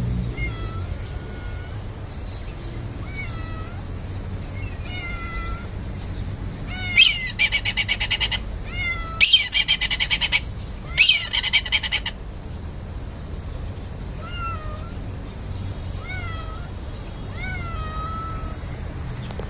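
A cat meowing: short calls that dip and rise, with three louder, harsher, rapidly pulsing calls in the middle, each opening with a steep falling slide.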